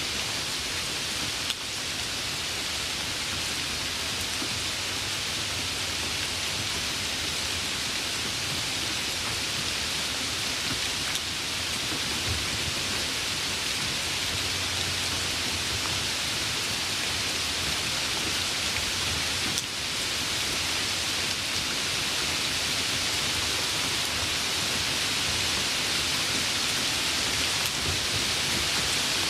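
Steady rain falling, an even, dense hiss of raindrops.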